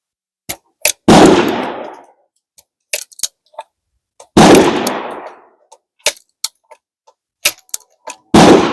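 Three loud gunshots about three and a half seconds apart, each trailing off in an echo of about a second, with sharp clicks between them.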